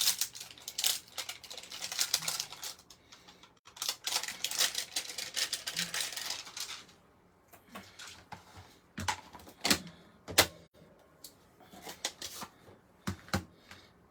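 Rapid tapping of a stamp on an ink pad, inking it up, in two runs of a few seconds each, followed by a handful of separate sharp taps and clicks as the stamp is pressed onto cardstock and set down.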